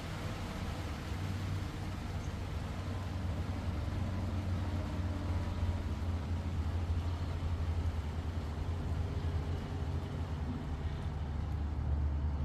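Rain falling steadily with a hiss that thins out toward the end as the shower eases, over a low steady rumble.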